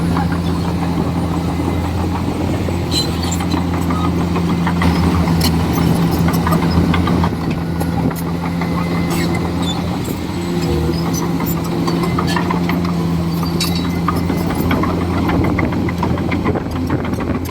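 Komatsu D41E bulldozer's diesel engine running steadily, with scattered clicks and knocks over it.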